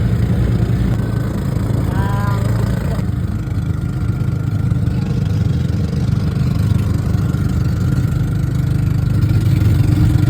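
Engine running steadily with a low, even hum, with a few short high chirps about two seconds in.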